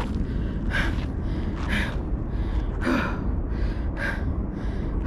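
A person breathing hard and out of breath from climbing a steep hill on foot, with about one heavy breath a second.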